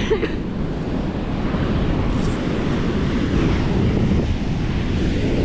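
Wind blowing hard across the microphone, a steady loud rumble, with surf behind it.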